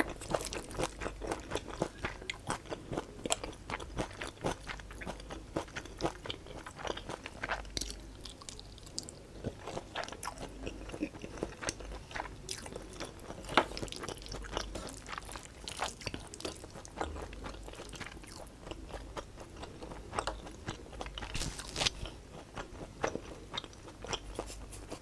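Close-miked chewing of Samyang jjajang black bean instant noodles, a dense run of small clicks from the mouth.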